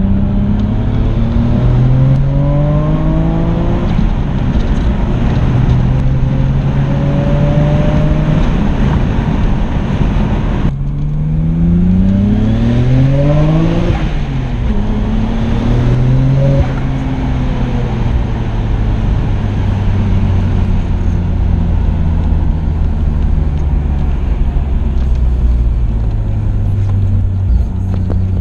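Nissan Skyline R32 GT-R's RB26DETT twin-turbo straight-six, heard from inside the cabin while driving: the engine pitch climbs and drops in steps as it goes up through the gears. About eleven seconds in the sound breaks off and the revs climb steeply, fall away a few seconds later, then settle into a steady cruise.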